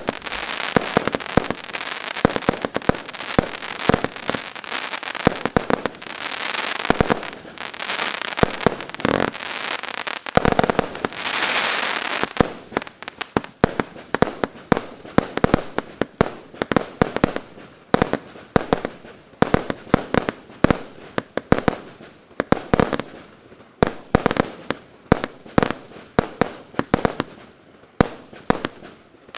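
Consumer firework battery (cake), Blue Night MC149, firing continuously: for about the first twelve seconds a dense stretch of hissing and crackling shells with bangs mixed in, then a rapid run of sharp separate bangs, several a second.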